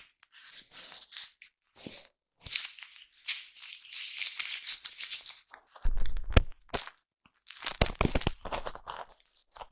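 Foam brushed and rubbed directly against a microphone: close, crackly scratching strokes in irregular bursts with brief pauses. A louder, deeper rub about six seconds in, then a dense run of quick strokes.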